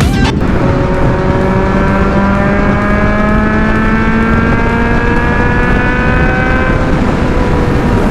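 Motorcycle engine pulling steadily under load, its pitch rising slowly for several seconds, over loud wind rush.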